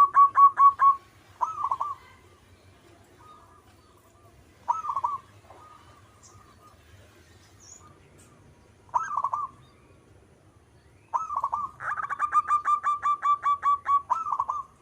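Zebra dove (perkutut) cooing. A fast run of staccato notes ends about a second in, short phrases follow at intervals of a few seconds, and a long rapid series of notes comes near the end.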